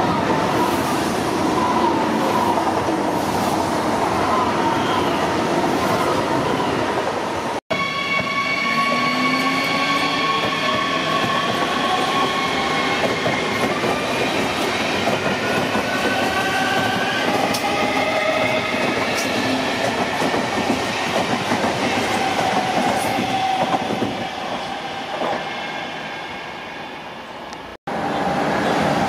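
Electric trains running through a station, in three spliced passages that change abruptly: first an ICE high-speed train rushing past. Then an RRX Siemens Desiro HC double-deck electric multiple unit runs along the platform, its electric drives whining in several gliding tones, and fades away. Near the end another ICE comes in.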